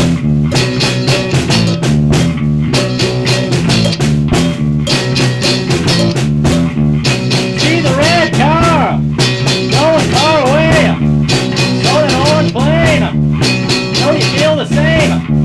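Psychedelic rock band playing an instrumental passage with drum kit, bass and electric guitar. From about halfway, a lead guitar line comes in with notes that bend up and fall back.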